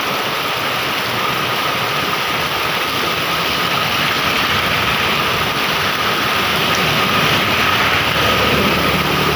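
Heavy rain pouring down, a loud steady hiss. A low engine hum comes in near the end.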